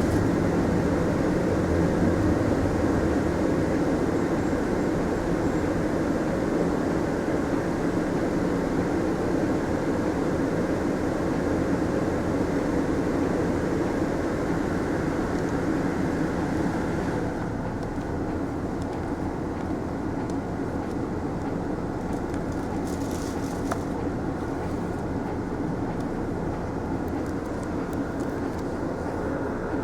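Interior running noise of a Mitsubishi Fuso Aero Star city bus: a steady engine and road rumble, with the higher hiss falling away about two-thirds of the way through.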